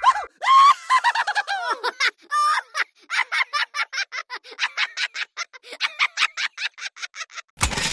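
Chickens clucking: a few drawn-out calls falling in pitch, then a rapid run of short clucks. Near the end a sudden crackling noise starts.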